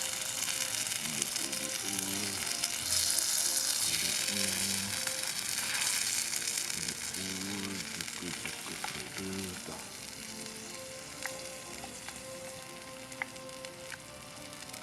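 Mapo tofu frying in a pan: a steady sizzle, loudest a few seconds in and dying down toward the end.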